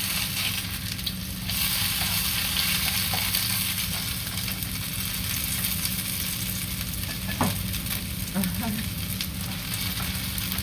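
Shredded-potato fritters frying in a nonstick pan with a steady sizzle, with light scrapes and taps of a spatula against the pan now and then.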